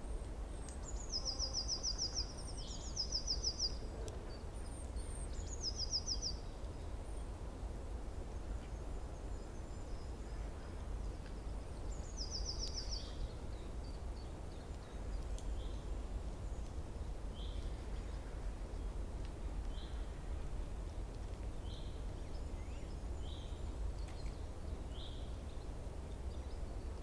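Wild birds calling: a few short, fast high trills in the first half, then single short chip notes every second or two, over a steady low outdoor rumble.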